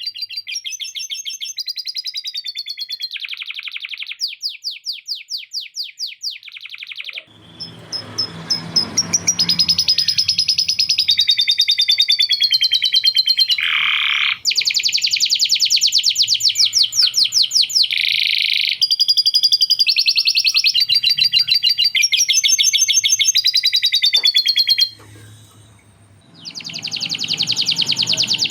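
Domestic canary singing long, fast rolls and trills, phrase after phrase with hardly a break, pausing briefly near the end.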